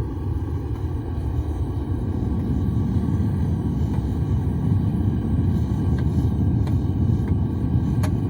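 Gas-fired melting burner running with a steady low roar, with a few faint ticks near the end.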